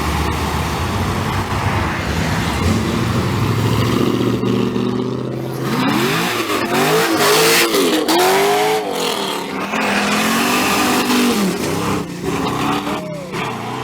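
A car engine running low and steady, then revved hard several times in quick rises and falls about six to nine seconds in, before easing off, with one more short blip near the end.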